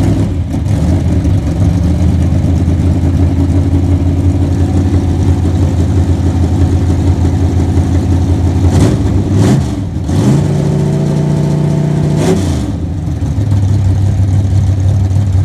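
Car engine running at a steady low note, then revving up about nine seconds in, holding the higher pitch for about two seconds, and dropping back to its earlier steady note.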